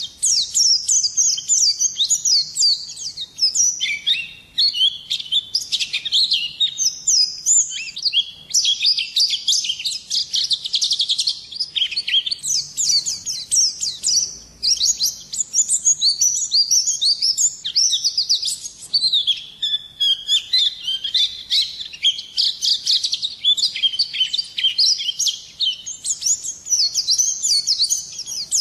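Pleci (white-eye) singing a long, rapid, high twittering song of quick chirps and trills, almost without pause.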